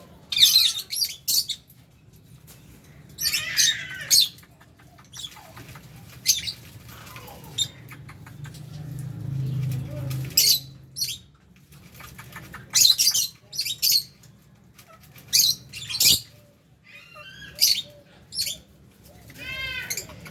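Flock of lovebirds in an aviary giving sharp, shrill chirps in short clusters every few seconds, with quieter gaps between.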